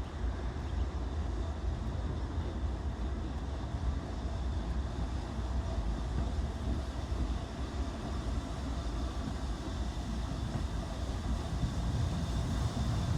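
BR Standard Class 9F 2-10-0 steam locomotive and its train running into a station, a steady low rumble that grows a little louder near the end.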